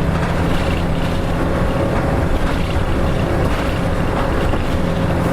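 Interior sound of a Hino Rainbow RM (KK-RM252GSN) city bus running steadily: its diesel engine holds an even low drone with road rumble and no change in revs.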